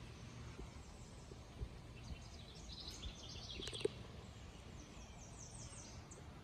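Faint outdoor background with birds chirping: a run of quick high notes about three seconds in and another, higher run near the end, with a single sharp click just before four seconds.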